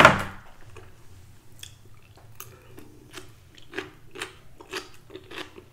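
A person chewing a mouthful of food close to the microphone, lips closed, with soft mouth clicks about twice a second. A short, sharp sound comes first.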